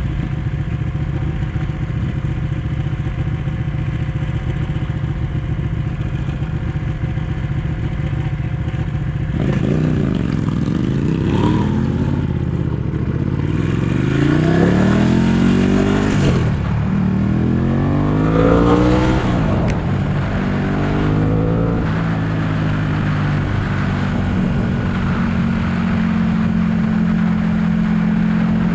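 Ducati 1199 S Panigale's L-twin engine running steadily at low revs, then from about ten seconds in pulling hard through the gears: several rising sweeps, each dropping back at a shift. It settles into a steady cruise near the end.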